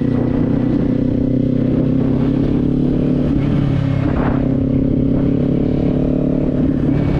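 Kawasaki Z400's parallel-twin engine running at steady revs while cruising, with wind buffeting the microphone as a rough low rumble underneath.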